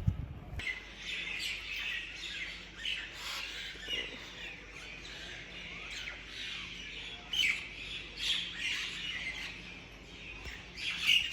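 Many small birds chirping and twittering at once, a dense chatter of short high calls that starts abruptly about half a second in.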